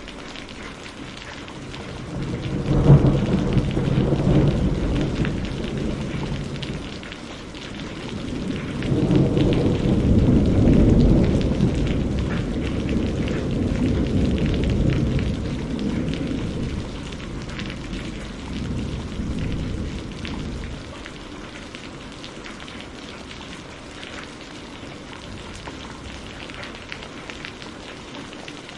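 Steady rain falling, with two rolls of thunder: a sharp clap about three seconds in that rumbles on for a few seconds, then a longer rumble that swells from about nine seconds in and dies away around twenty seconds.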